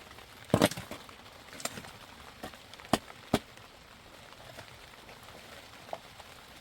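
A handful of separate sharp knocks and clatters at uneven intervals, the loudest about half a second in, over a quiet background.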